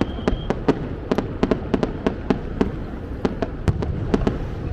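Fireworks display: aerial shells and crackers bursting in a rapid, irregular run of sharp bangs, about four a second, over a low rumble. A high steady whistle cuts off about half a second in.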